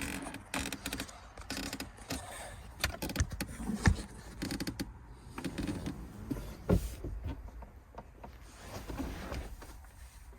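Irregular clicks, knocks and short scrapes of small parts and packaging being handled by hand.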